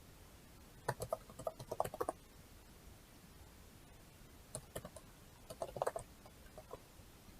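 Two short bursts of quick clicks and taps from a computer keyboard, like typing: one about a second in and another from about four and a half seconds in.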